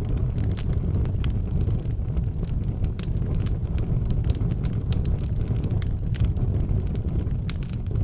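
Fire burning in an outdoor fireplace: a steady low rumble of flame with frequent sharp crackles and pops scattered irregularly throughout.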